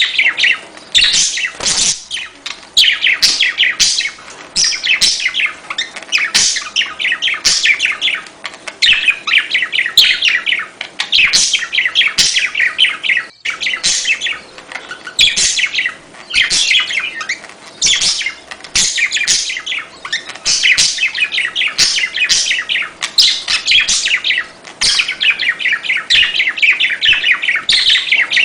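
Budgerigars chattering and warbling: fast runs of high chirps in phrases about a second long, with a brief break about thirteen seconds in.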